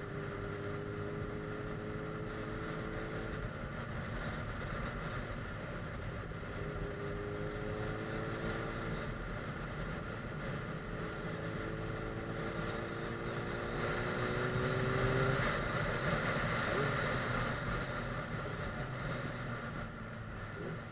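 Suzuki GSF 600 Bandit S inline-four engine under way, rising in pitch three times with short breaks between, as when accelerating through the gears, over a steady rush of wind and road noise. It is loudest about two-thirds of the way through.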